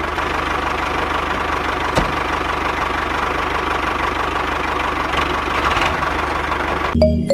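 Mini tractor engine idling steadily, with a single sharp click about two seconds in. Music cuts in abruptly just before the end.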